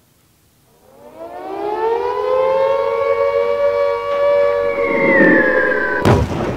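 Air-raid siren sound effect winding up in pitch over about a second and holding a steady wail, then a sudden loud crash near the end.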